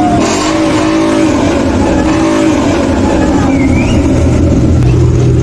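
Loud vehicle engine sound with the pitch rising and falling several times as the engine revs, over a steady low drone.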